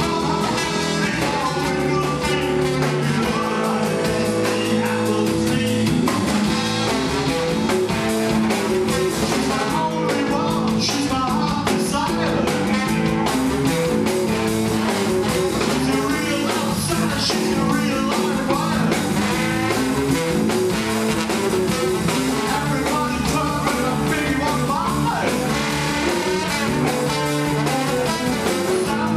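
Rock band playing a song with guitar and drums, a stretch with no sung words.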